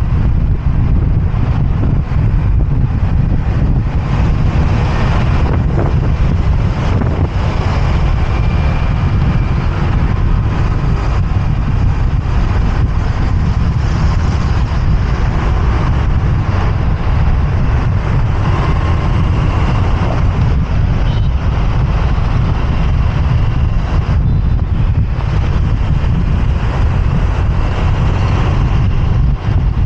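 Wind buffeting the microphone of a moving motorbike, heavy and steady, over the noise of city traffic around it.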